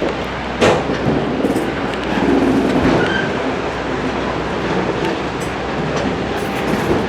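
Train running on the rails, a steady rumbling noise with a sharp knock a little under a second in.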